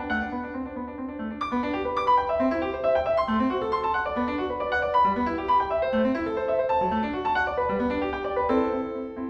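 Solo piano music, a quick run of notes over a repeating figure in the left hand.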